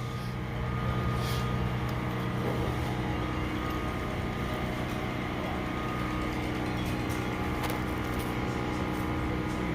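A vehicle engine idling steadily, a constant low hum that holds one even pitch.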